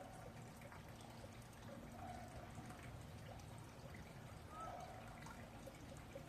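Red panda chewing and tearing bamboo: faint, irregular crunching and crackling ticks.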